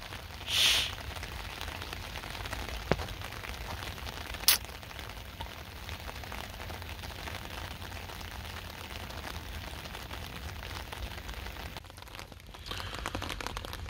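Steady rain falling on wet concrete, with a few faint clicks.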